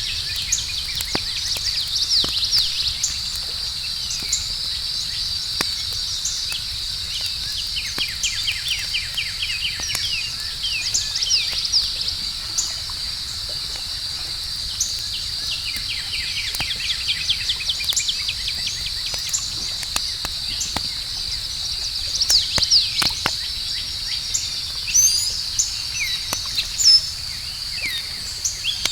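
Campfire crackling with scattered sharp pops, over a steady high chorus of crickets and repeated bird chirps and rapid trills.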